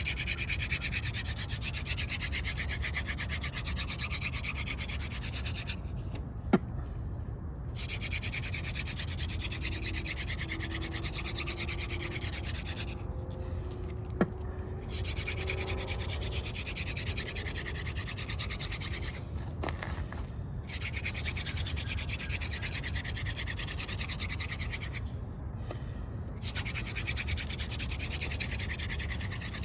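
Yucca hand-drill spindle spun between the palms in the notch of a crepe myrtle hearth board: a steady friction rubbing that stops for a second or two about every six seconds as the hands return to the top of the spindle. Three of the pauses hold a sharp click.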